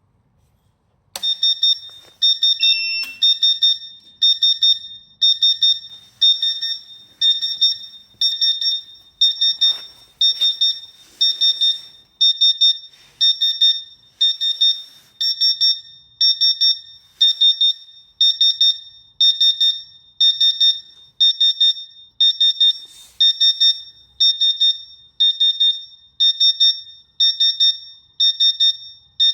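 S&A 5200 water chiller's alarm beeping: a high-pitched beep repeating a little under once a second, starting about a second in. It is the chiller's alarm for no water flowing through the unit.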